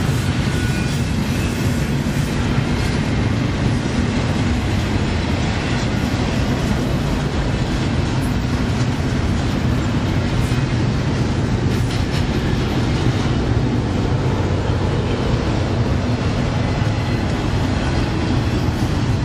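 Double-stack container well cars rolling past at a steady speed: a continuous low rumble of steel wheels on rail, with a few clicks over rail joints.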